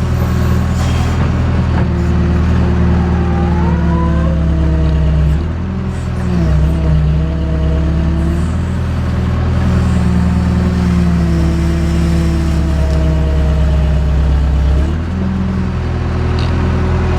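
JCB backhoe's four-cylinder Perkins diesel engine running. Its pitch shifts and briefly dips about a third of the way in and again near the end.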